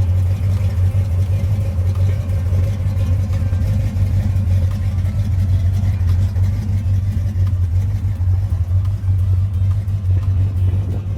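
383 stroker V8 in a 1963 Chevy II Nova Pro/Street, running steadily through Hooker headers and a Flowmaster exhaust with a deep, even exhaust note.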